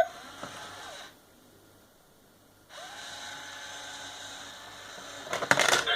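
Small electric motor of a cat coin-bank money box whirring in two stretches, as the toy cat comes out and takes a coin, with a short loud sound near the end.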